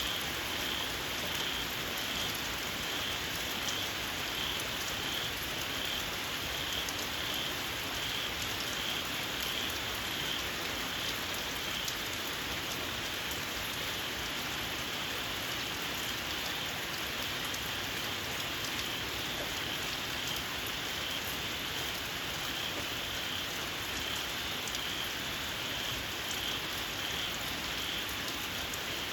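Steady rain falling, with small frogs giving a shrill, fast-repeating call over it.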